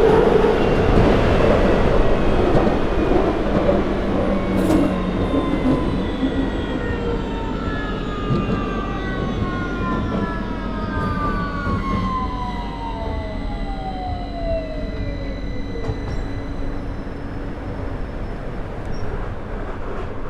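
London Underground 2009 Stock train running in a tunnel: heavy wheel-and-track rumble with the traction motor whines. The whines fall steadily in pitch and the rumble dies down as the train slows on its approach to the terminus.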